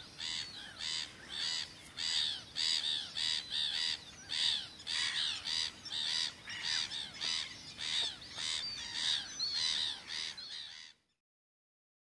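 A bird calling over and over in a fast, even series of short rising-and-falling notes, about three a second, which stops abruptly near the end.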